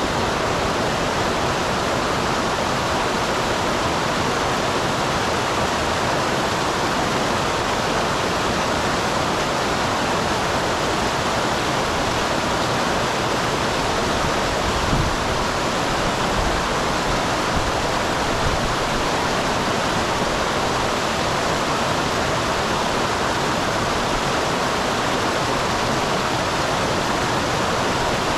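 Small waterfall on a mountain stream: water pouring steadily into a pool, an even rushing splash with no pause.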